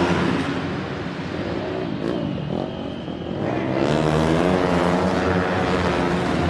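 Dirt-track racing motorcycle engines running, then revving up with a rising pitch about four seconds in.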